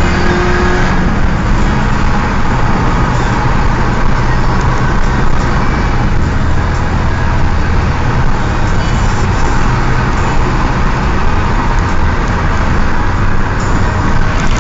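Perodua Myvi's engine pulling hard under acceleration. A rising engine tone breaks off about a second in at a gear change, then steady engine and road noise continue at a high level.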